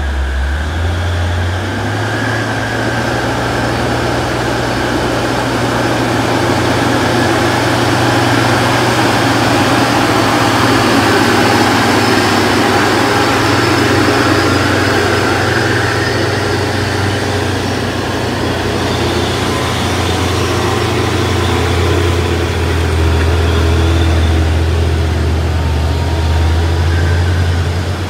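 Heavy diesel truck engine running steadily at low revs under load, a deep continuous drone that strengthens a little in the last few seconds.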